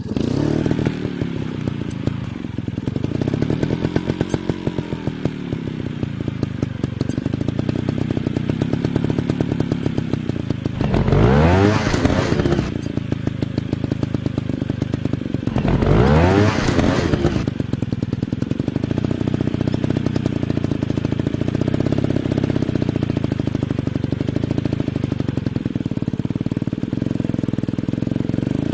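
Dirt bike engines running throughout, the pitch rising and falling as the throttle is worked. There are two much louder full-throttle surges, about eleven and sixteen seconds in.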